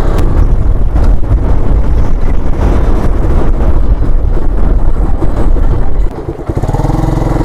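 Wind buffeting the microphone on a moving motorbike, with the engine's rumble underneath. About six seconds in the wind drops away and the engine's steady note comes through.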